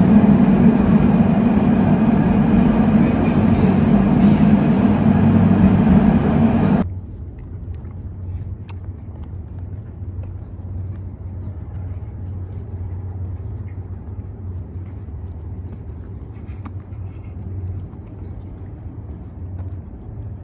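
Loud steady rumbling noise that cuts off abruptly about seven seconds in, leaving a quieter low hum with a few faint clicks.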